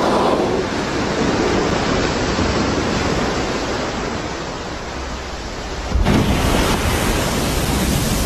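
Loud, steady rushing noise; it changes abruptly about six seconds in, turning louder and fuller.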